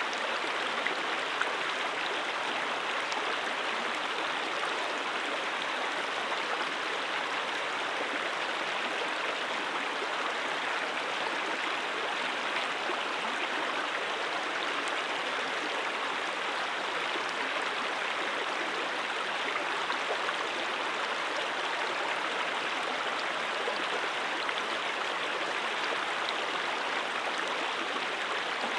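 Stream water flowing and splashing over rocks: a steady, even rushing with fine babbling detail.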